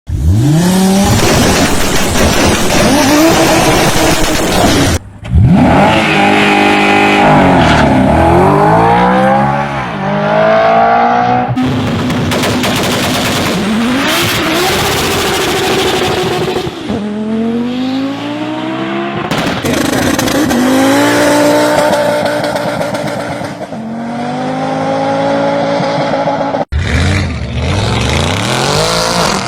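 Audi RS cars accelerating flat out from launch-control starts, the engine note climbing steeply through each gear and dropping back at every upshift. Several separate runs follow one another, with abrupt cuts between them.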